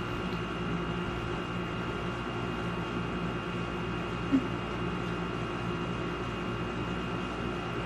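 Steady room hum and hiss, a machine-like drone holding several fixed tones, with one short faint sound about four seconds in.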